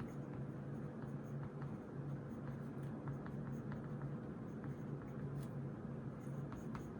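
Pen or pencil writing on notebook paper: faint, irregular scratches and small taps over a steady low electrical hum.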